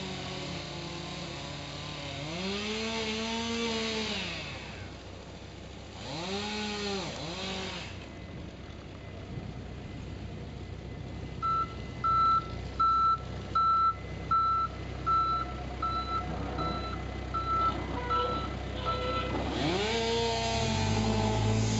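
An engine revs up and down a few times. Then a vehicle's reversing alarm beeps steadily, about twelve beeps at a bit over one a second, and the engine revs up again near the end.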